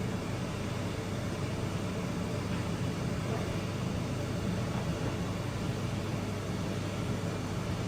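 Miele W1 washing machine running with a steady, even motor and drum noise.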